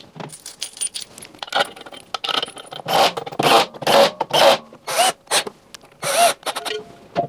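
Sped-up sound of a washing machine being reassembled: a quick run of scrapes, clicks and knocks from parts and tools being handled and fitted.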